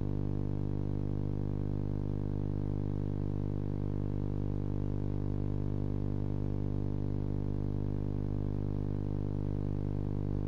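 Steady electrical hum with a buzzing stack of overtones, unchanging throughout; no owl calls stand out above it.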